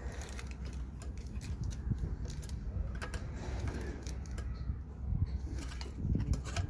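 Scattered light metallic clicks and clinks from hand work on rear drum-brake parts (shoes, springs and tools), over a steady low background hum.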